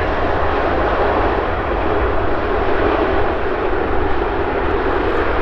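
Boeing 787-9 airliner's jet engines, a steady, loud, even roar.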